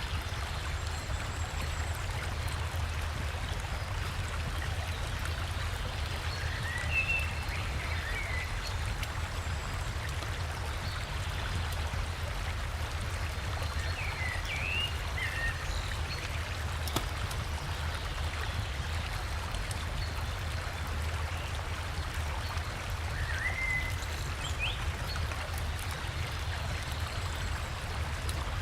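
River water and a small waterfall flowing steadily, with a deep low rumble under the rush. A bird chirps briefly three times, about a quarter, half and four-fifths of the way through.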